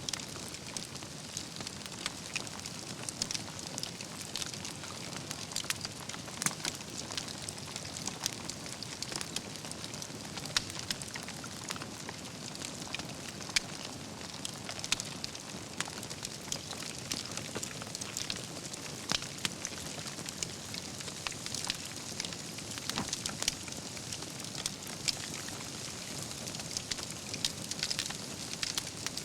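Wood campfire burning, with a steady low rush and frequent sharp crackles and pops from the logs and embers scattered throughout.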